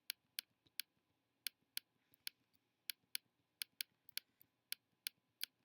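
Computer mouse clicking as a Photoshop brush is dabbed over a photo: faint, sharp, irregular clicks, about three a second.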